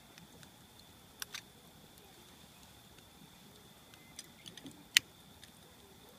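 Wood fire crackling: sparse sharp pops and snaps, a small cluster about four seconds in, and the loudest single pop about five seconds in.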